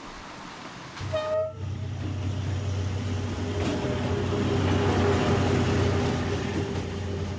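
An approaching train: a short horn toot about a second in, then the low, steady drone of its diesel locomotive growing louder as it nears.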